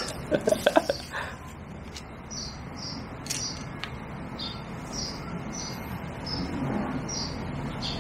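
A bird chirping a short high note over and over, about twice a second. A quick cluster of short sharp sounds comes in the first second.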